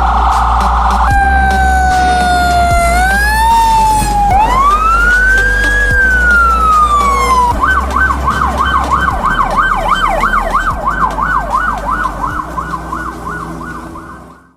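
Fire engine's electronic siren changing modes: a very fast warble, then slow falling and rising wail sweeps, then a rapid yelp from about halfway, over the truck's low engine rumble. It fades out near the end.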